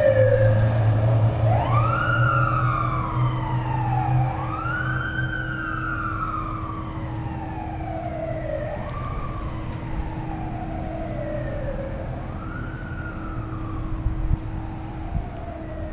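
Siren of a 1991 Seagrave fire engine responding to a call, repeatedly winding up quickly and slowly dying away, about five times, and growing fainter. A low rumble sits under it in the first few seconds.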